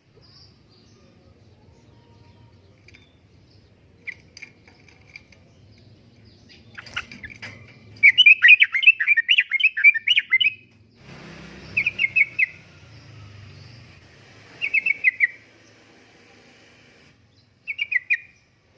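Yellow-vented bulbul singing: a few faint chirps, then a long run of quick warbled notes, followed by three short bursts of chirps.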